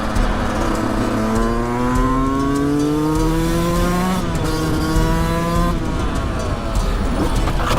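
A vehicle engine accelerating hard: its pitch climbs, drops once at a gear change about four seconds in, climbs again, then falls away as it eases off.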